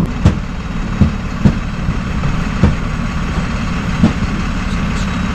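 Work truck's engine running steadily with a low rumble, with several short sharp clicks at uneven intervals.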